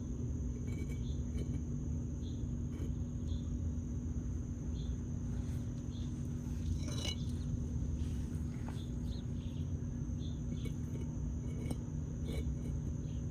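Outdoor ambience: a steady low rumble under a faint, continuous high insect drone, with scattered short chirps and a single light knock about seven seconds in.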